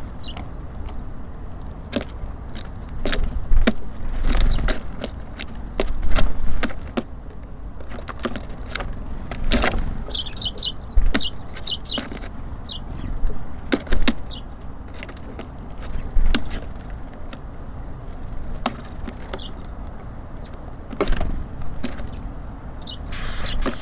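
Small songbirds at a bird feeder: a string of irregular clicks and knocks from pecking and landing, with short high chirps and calls, several in quick succession a little before the middle. A steady low rumble runs underneath.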